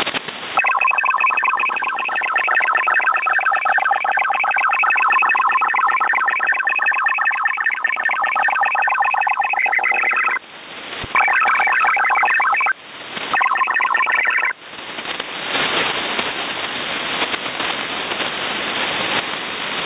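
Shortwave radio receiver in upper sideband picking up a buzzing chord of many steady tones for about ten seconds, cut off twice briefly, then giving way about fifteen seconds in to steady static hiss.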